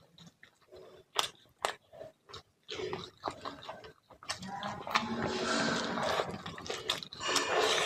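Close-miked eating of fish curry and rice: wet chewing with sharp mouth and lip clicks, turning into a longer, continuous stretch of chewing and slurping a little past halfway.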